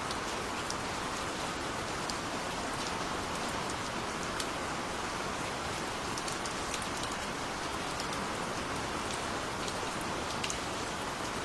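Gentle rain falling steadily, an even hiss with individual drops ticking sharply now and then.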